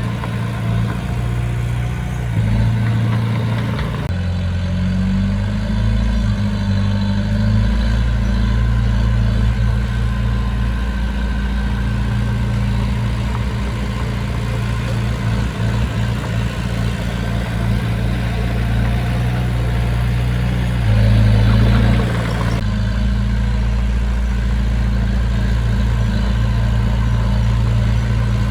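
Heavy diesel engine of construction machinery running steadily at low revs, changing load a few times and briefly louder about three quarters of the way through.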